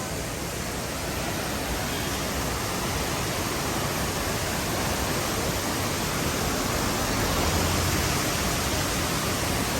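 Steady rushing noise, slowly growing louder.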